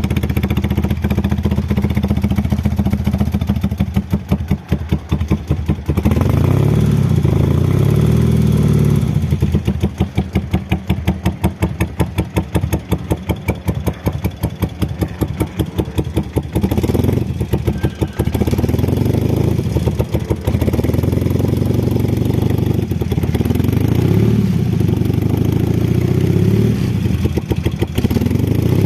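1975 BMW R90/6 air-cooled flat-twin engine running through Norton peashooter mufflers, idling with a distinct beat and repeatedly blipped up in revs and allowed to drop back.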